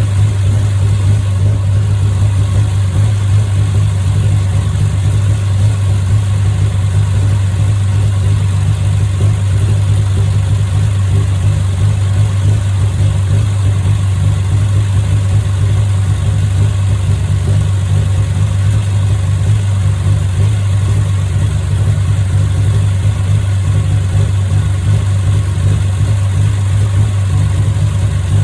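Freshly rebuilt Triumph TR6 2.5-litre straight-six engine running steadily on its first run after the rebuild, holding an even speed without revving.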